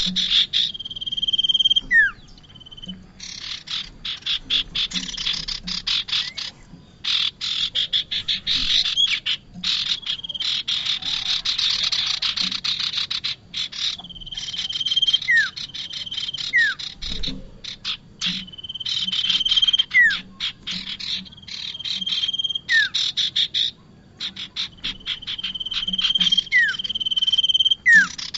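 Prenjak (prinia) calling in repeated bouts: fast dry rattling trills, steady high whistled notes and short falling notes. This is the call played to lure prenjak in.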